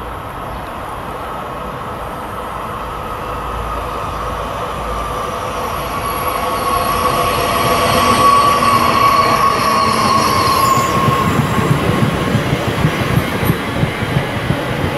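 SNCF AGC regional multiple unit approaching and running past. A steady whine grows louder and is strongest about halfway through. After that, fast low clattering of wheels over the rail joints sets in as the cars go by.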